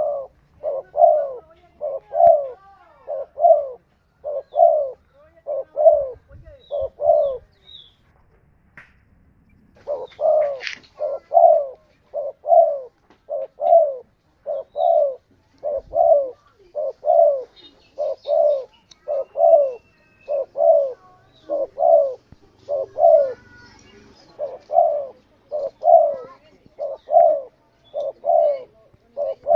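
Spotted dove (tekukur) cooing: a long series of low coo notes at about one a second, breaking off for a few seconds about a quarter of the way in before carrying on. Faint chirps from other small birds can be heard now and then.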